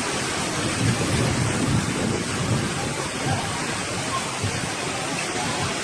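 Heavy rain and strong wind of a summer storm: a steady rush of noise, with the wind buffeting the microphone in uneven low gusts.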